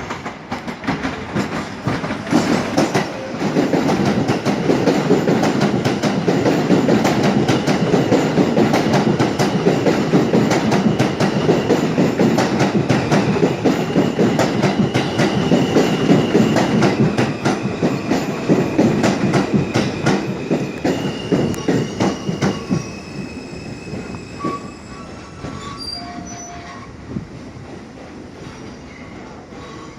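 A New York City subway train going past close by: a loud rumble with rapid clacking of wheels over rail joints and high squealing tones from the wheels. It builds about two seconds in, stays loud for most of the stretch, then fades away near the end.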